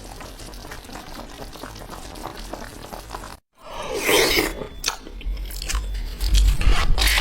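A cat chewing crunchy food. There is a softer stretch of fine crackling first, then, after a short break about three and a half seconds in, louder uneven crunches.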